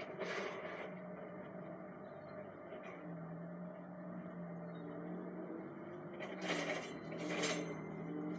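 Truck engine drone heard from inside the cab: a steady low hum that drops slightly in pitch about three seconds in. Short hisses come near the start and twice near the end.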